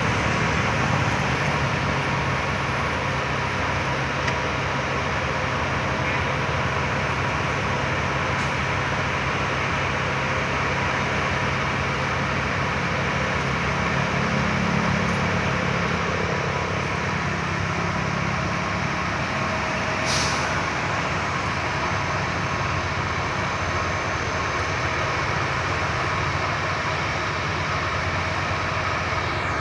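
Railway ballast-levelling machine working on the track, its diesel engine running steadily under a continuous grinding noise of moving ballast stones, with a brief hiss about twenty seconds in.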